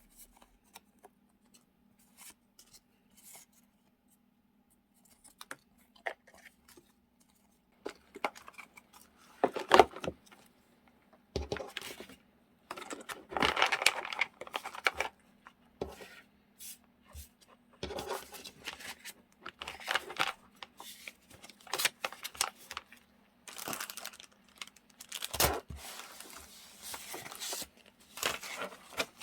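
Close-miked handling of paper stationery and packaging: rustling and tearing with small taps and clicks, sparse for the first several seconds, then busier and louder.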